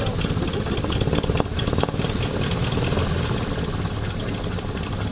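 Replica S.E.5a biplane's piston engine running steadily, its pitch and loudness holding even.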